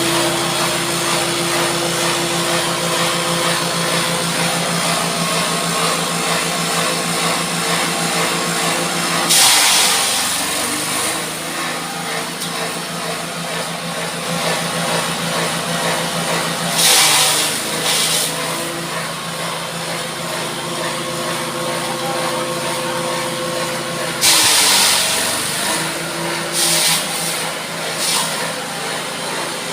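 Engine-driven grass chopper running steadily, with several loud rushing bursts as material goes through the cutter; twice the engine pitch dips under the load and then recovers.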